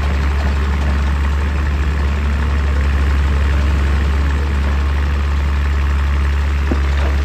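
Excavator's diesel engine running steadily, a deep, even hum with no breaker hammering.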